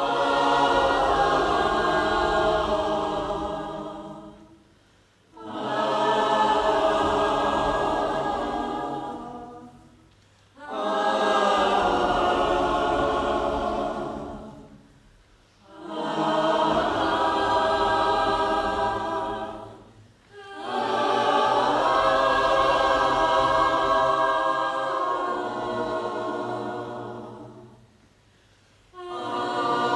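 Choir singing unaccompanied, holding long chords in phrases of about five seconds. Each phrase fades away into a brief silence before the next begins.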